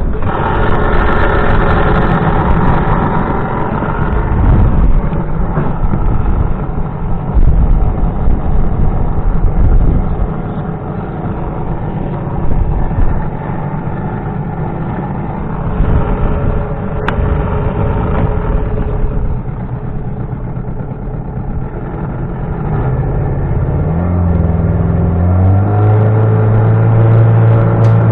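An engine running steadily under loud wind noise; near the end its pitch climbs in several steps.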